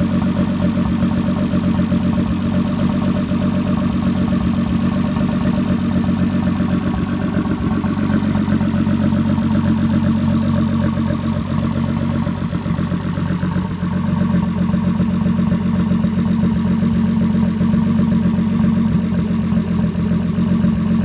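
Turbocharged BMW E30 with a swapped-in M50TU inline-six, idling steadily, the engine running on its own after the swap; its note is briefly quieter about thirteen seconds in.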